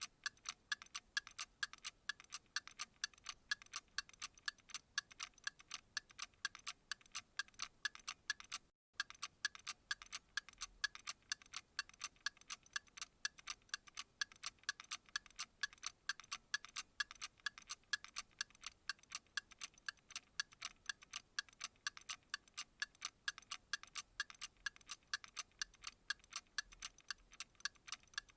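A clock ticking in a quick, even rhythm, with a very brief drop-out about nine seconds in.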